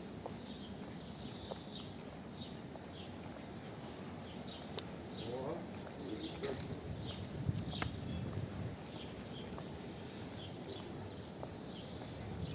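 Small birds chirping over and over, short high chirps falling in pitch, over a background murmur of people's voices with a few sharp clicks.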